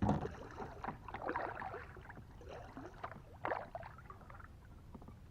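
Kayak paddle strokes dipping and splashing in the water, a few strokes about a second apart, starting with a sudden knock.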